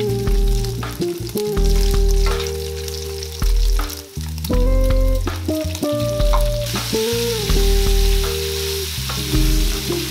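Pork belly pieces sizzling in hot fat in a stainless steel frying pan, with the crackle of spattering and a wooden spoon stirring. About two thirds of the way in, the sizzle turns smoother and steadier. Background music with steady bass notes plays under it.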